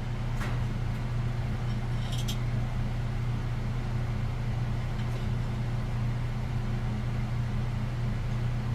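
A steady low hum, with a few faint light clicks, the clearest cluster about two seconds in.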